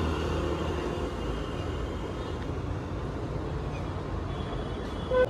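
A vehicle running with a steady low rumble, and a short beep-like tone about five seconds in.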